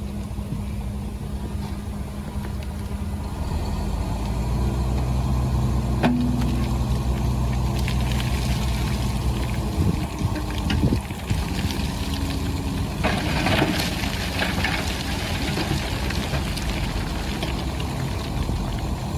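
Engine of a heavy earthmoving machine running, its note rising and holding about four seconds in. A few sharp knocks follow about ten seconds in, then a short stretch of clattering noise.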